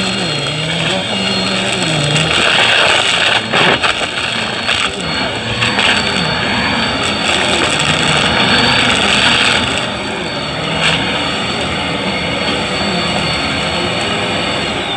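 Vacuum cleaner running with a steady high motor whine and a low hum that shifts up and down as it is pushed back and forth, with a few knocks a few seconds in. Right at the end the whine starts to fall as the motor winds down after being switched off.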